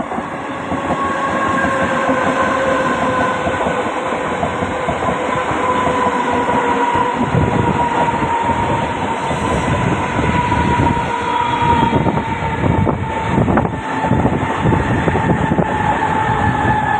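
Mumbai suburban fast local train running at speed, a loud rumble with a steady whine that slowly drops in pitch. Wheels clatter over rail joints, most heavily about three-quarters of the way through.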